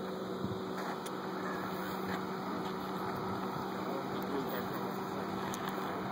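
Vehicle engine idling: a steady low hum over an even rush of background noise.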